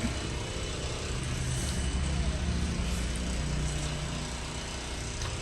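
Engine of a construction machine running steadily, a low drone whose pitch wavers slightly.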